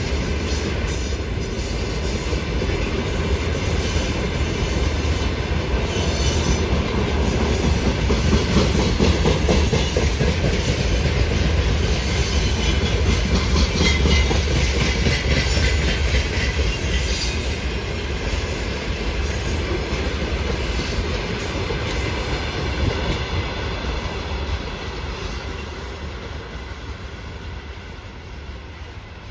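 Loaded freight train rolling past: steel wheels clatter over the rail joints with a low rumble and some high wheel squeal. The sound fades away over the last few seconds as the train draws off.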